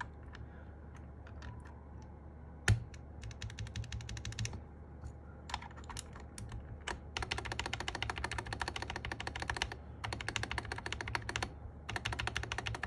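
Typing test on a Sky87 mechanical keyboard with MMD Panda tactile switches and cherry-profile keycaps: a few scattered key presses and one sharp clack about three seconds in, then short runs of keystrokes building to fast, continuous typing with brief pauses. The bottom-out is crisp and clear.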